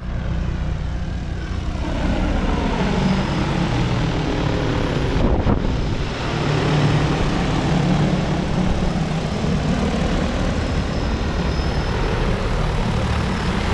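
Agricultural spray drone's rotors droning steadily as it flies, over a heavy low rumble; the pitch glides in the first couple of seconds as it passes.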